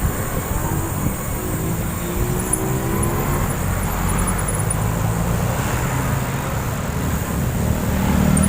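Road traffic noise heard from a moving bicycle: passing cars and motor vehicles over a steady low rumble of wind buffeting the microphone.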